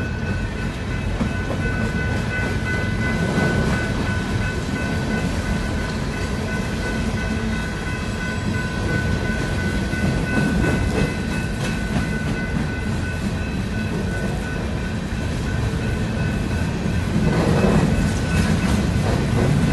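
Train running along the track: a steady low rumble with some rail clatter, and a few high, steady whining tones over it. It grows a little louder near the end.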